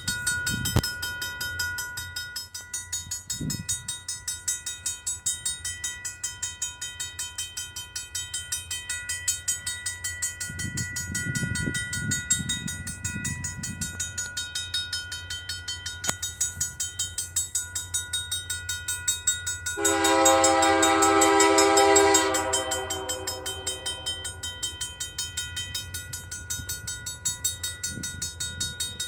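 A level crossing bell ringing rapidly and steadily, with a train horn giving one long blast of about two and a half seconds some twenty seconds in. Low rumbles come and go underneath.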